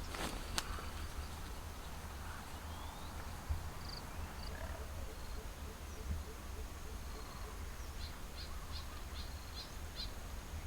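Faint forest ambience with a low rumble, a few clicks near the start, and small bird chirps: a couple about four seconds in, then a quick run of about six near the end.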